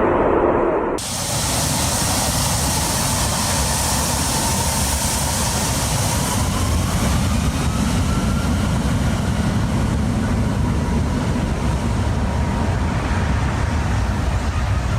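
Aircraft engine noise: a steady, dense rumble with a faint whine slowly rising in pitch.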